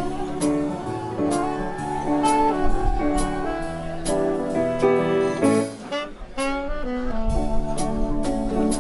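Live jazz-style instrumental quartet: saxophone playing the melody over a drum kit with regular cymbal strokes and chordal accompaniment from piano and guitar. Wind rumbles on the microphone underneath.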